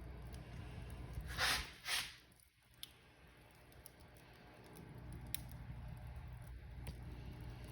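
Wood fire crackling in a fireplace: a steady low rumble with scattered sharp pops, and two louder hissing crackles about a second and a half and two seconds in, after which the sound briefly drops away before returning.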